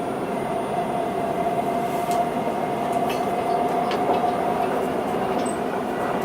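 Linimo set 08 HSST maglev train running between stations, heard from inside the car: a steady hum with one held tone from its linear induction motor drive, and no tyre or wheel noise. A few light clicks come about two, three and four seconds in.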